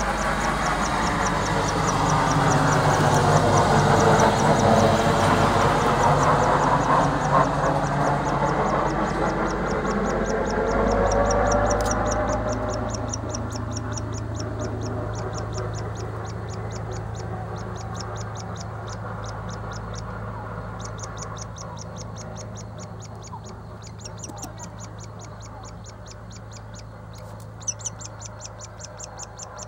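Woodpecker nestling begging from the nest hole: a fast, steady series of short, high chirps, several a second. Over the first dozen seconds a loud engine noise, like a passing vehicle, swells and then fades away, and a few sharp taps come near the end.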